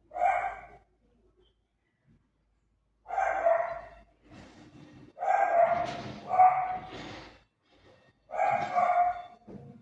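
A dog barking, five barks at irregular intervals with pauses between them.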